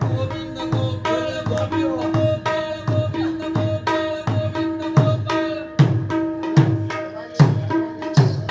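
Mridanga played solo in a fast rhythmic pattern: ringing tuned strokes on the treble head mixed with deep bass strokes that slide down in pitch.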